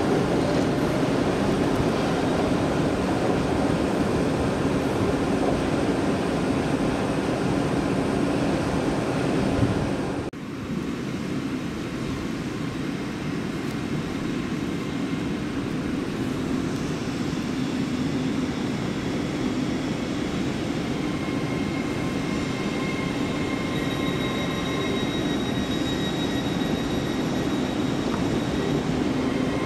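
Passenger train running, a steady mechanical noise. About ten seconds in it cuts abruptly to a slightly quieter stretch of the same kind of train sound, where faint high whining tones come and go in the second half.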